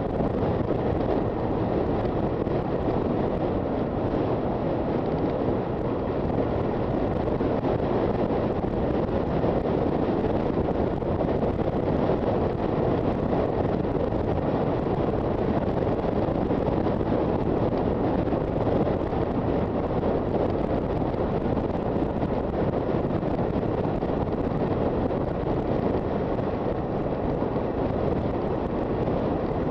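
Steady wind rush over the microphone of a moving Honda FT400 motorcycle, mixed with its running engine and road noise, with no change in pace.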